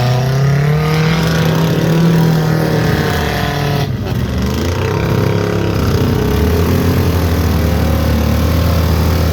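Off-road truck engine running hard under load, its pitch holding steady after a rise, dipping briefly about four seconds in, then settling lower for the rest.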